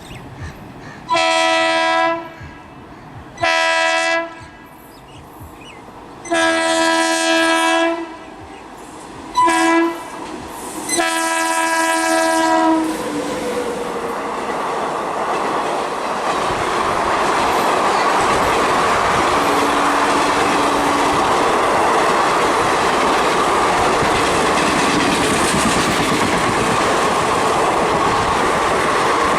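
Indian Railways electric locomotive horn sounding five blasts in the first half, two of them long, then the express train running past with a loud, steady rush and clickety-clack of wheels over the rail joints.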